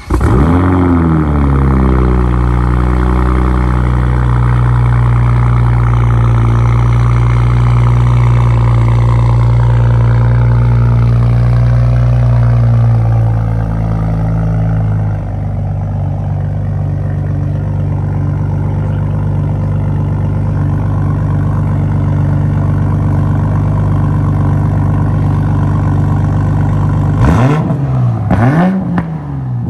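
Toyota A90 Supra engine starting through a muffler-less titanium track exhaust. It catches at once and flares, then settles into a high idle that drops to a lower, steady idle about halfway through. Near the end it is revved twice in quick blips.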